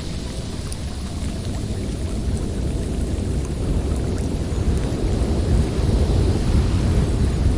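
Blizzard wind blowing steadily with a deep rumble, swelling somewhat louder past the middle.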